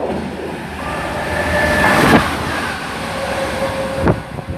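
Freight train headed by a Class 66 diesel locomotive passing through a station at speed: a loud rumble of wheels and wagons, with sharp clacks over rail joints about two and four seconds in and thin steady whining tones from the wheels.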